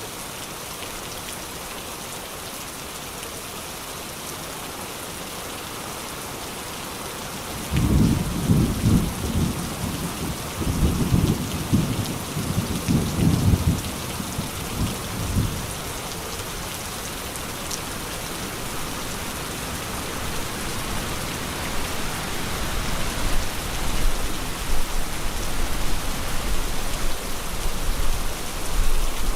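Steady rain hissing, then about eight seconds in a clap of thunder breaks in and rolls on in several low waves for some eight seconds before fading. A low rumble builds again near the end over the rain.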